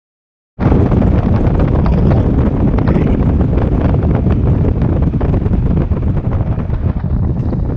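Loud wind buffeting the microphone, cutting in abruptly about half a second in and then running as a steady low rumbling rush.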